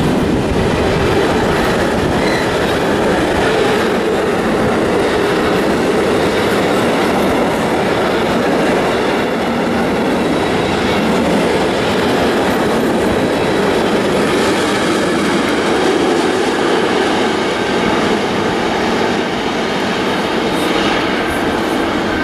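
Intermodal freight train of loaded container flat wagons rolling past at close range: a steady, loud rolling noise of wheels on the rails, easing a little near the end as the last wagons go by.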